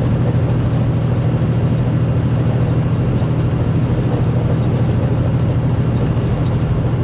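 Semi truck's diesel engine and road noise heard from inside the cab while cruising, a steady low drone with no change in pace.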